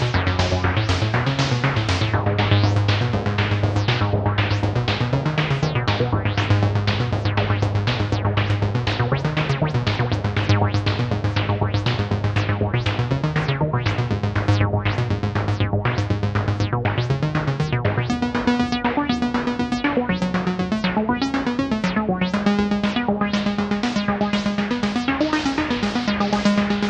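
Moog DFAM drum synthesizer and Mother-32 semi-modular synthesizer playing together: a fast, steady run of analog percussion hits over a sustained low bass tone that slides up in pitch every few seconds. About two-thirds of the way through, the bass steps up to a higher note.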